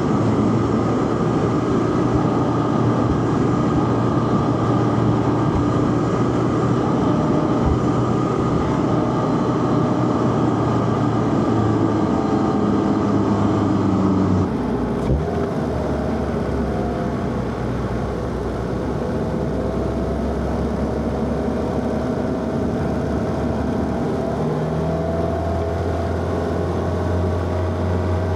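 Inline-four car engine running under load, its pitch steady through the first half. About halfway the sound changes abruptly to a quieter engine note, which climbs in pitch near the end as the car accelerates.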